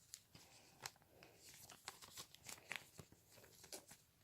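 Faint, irregular light clicks and soft crinkles of Pokémon trading cards and a foil booster-pack wrapper being handled.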